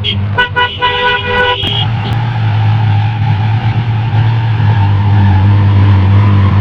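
A car horn honks in several short toots during the first two seconds, over a steady low drone of a car engine.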